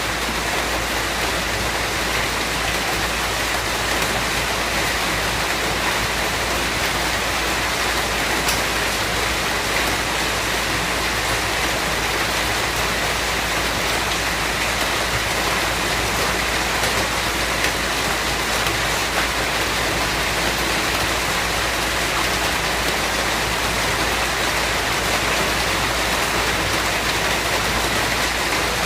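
Steady, even rain falling, with faint scattered drop ticks.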